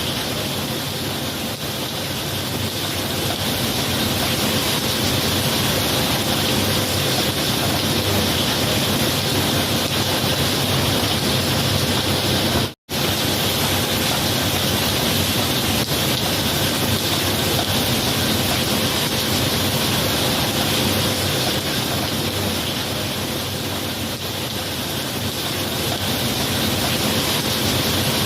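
Steady heavy rain, an even hiss with no thunder, that cuts out for an instant about halfway through before carrying on unchanged.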